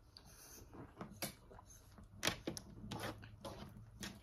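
Quiet, scattered wet clicks and smacks of a mouth chewing and swallowing soft, slimy food.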